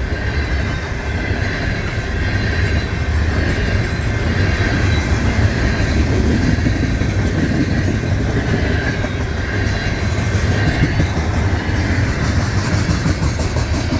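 Freight cars of a long manifest train rolling past, steel wheels rumbling and clacking over the rail joints with a thin wheel squeal. The clacks grow more distinct near the end.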